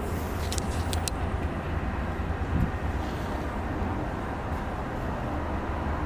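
Steady low rumble of a train, with a few brief sharp clicks about a second in.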